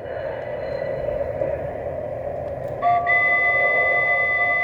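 A model train sound system plays a steady rolling rumble. About three seconds in, a multi-chime locomotive air horn starts a long blast that is still sounding at the end.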